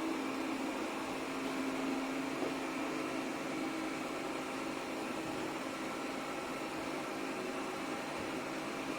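Airzeen R7 robot vacuum running, a steady whirring suction motor with a hiss. A low hum is strong at first and fades after about three seconds.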